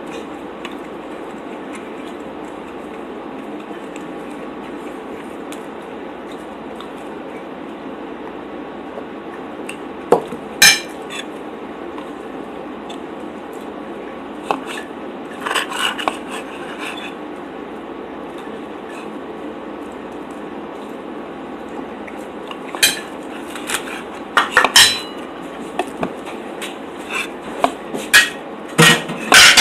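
Cutlery clinking and scraping on a plate in scattered sharp knocks: a couple about ten seconds in, a small cluster around sixteen seconds, and more frequent ones toward the end. A steady hiss lies under them.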